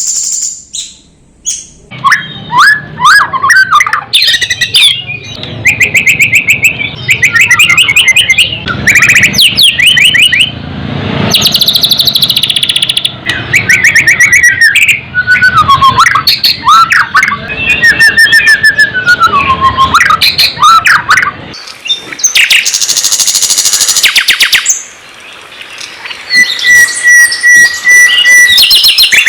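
Songbird singing loudly in a varied, continuous song of whistled phrases, fast trills and chirps, broken by short pauses, with a steady whistled note near the end.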